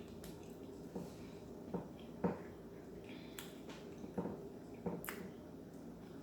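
Eating sounds: about seven short, sharp mouth smacks and clicks at irregular intervals, over a faint steady hum.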